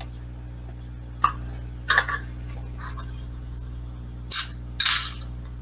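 Several short clinks and clicks, a glass and drink being handled as a drink is served, over a steady low electrical hum.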